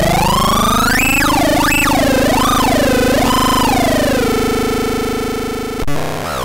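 Homemade CMOS 4093 NAND-gate synthesizer: buzzy square-wave oscillators whose pitch swoops up and down several times, then settles into a steady drone about four seconds in. The sound cuts out briefly near the end.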